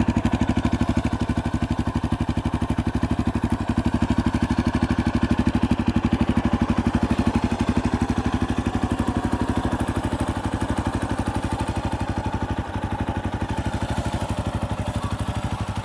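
Yamaha Tricker XG250's air-cooled single-cylinder engine idling with an even, regular beat, running after its cam chain tensioner has been adjusted to deal with an abnormal engine noise. It gets slightly quieter about two-thirds of the way in.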